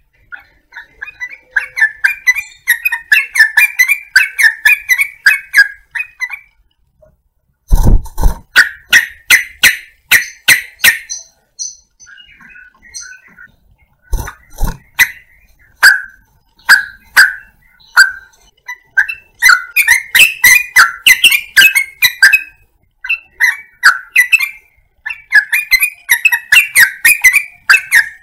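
Yellow-vented bulbul (trucukan) calls played as a lure recording: runs of quick, chattering notes with short pauses between them, broken twice by loud sharp clicks.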